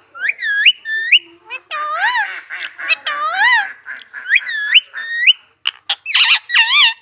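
Pet rose-ringed parakeet calling and chattering in a high, nasal voice: a quick string of short squawks that each rise in pitch, with some warbling, speech-like babble mixed in.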